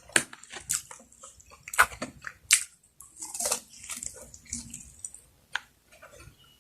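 Close-miked eating: irregular wet chewing and smacking, with sharp mouth clicks.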